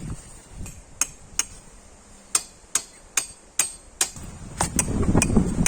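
Hammer blows, about ten sharp separate knocks at an uneven pace of roughly two a second. A low rushing noise swells underneath near the end.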